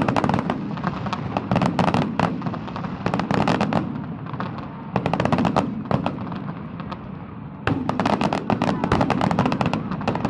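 Fireworks going off in four bursts of rapid, sharp crackling pops over a low rumble.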